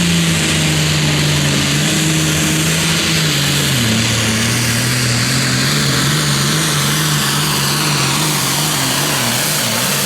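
International Harvester 1206 Super Farm pulling tractor's turbocharged diesel running hard under load on a pull, loud and steady; its engine note drops in pitch about four seconds in.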